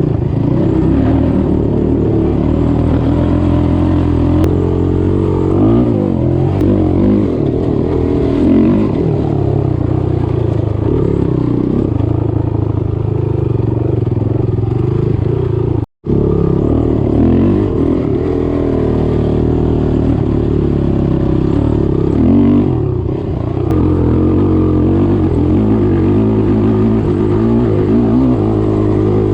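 Off-road vehicle engine being ridden, its pitch rising and falling with the throttle. A split-second dropout to silence about halfway through.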